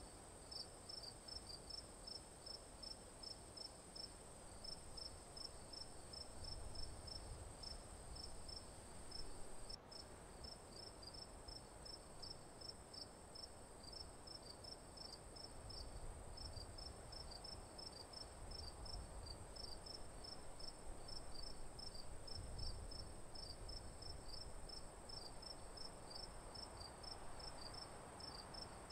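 Crickets chirping in an even run, about three chirps a second, over a continuous high-pitched insect trill. A few soft low rumbles come and go.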